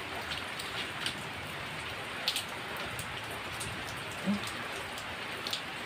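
Steady rain falling, with scattered sharp drops tapping close by.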